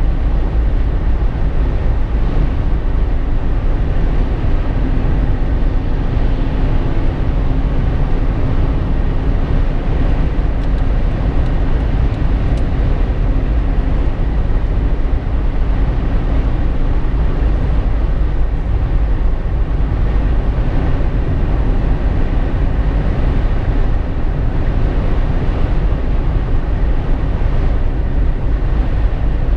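Steady rumble of road, tyre and wind noise inside a Jeep Wrangler JK's cabin while driving, deep and unbroken.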